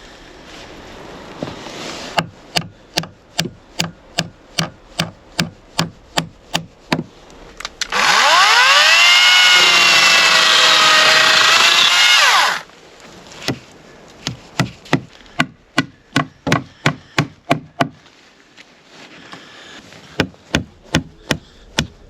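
Woodworking: sharp strikes on wood, about three a second. About a third of the way in, they give way to a power tool that winds up in pitch, runs loudly for about four seconds and cuts off suddenly, after which the strikes resume.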